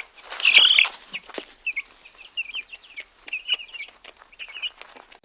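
Chickens calling: one loud, drawn-out high call about half a second in, then a run of short, high clucks and peeps.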